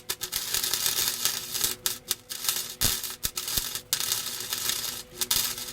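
Arc welder tack-welding a steel exhaust pipe overhead: a continuous crackling sizzle of the arc, broken by a few short gaps where the arc goes out and restrikes.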